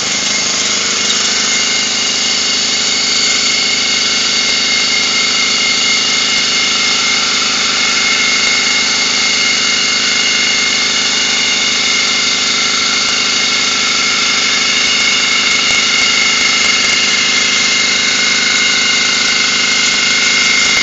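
Air compressor running steadily, building tank pressure after kicking back on toward its cut-out of about 140 psi.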